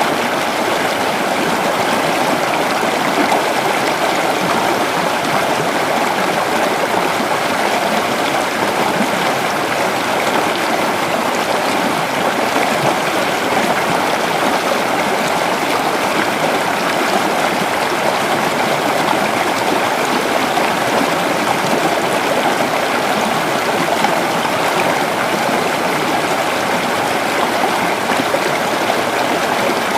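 Creek water running steadily over rocks, a continuous rushing and babbling.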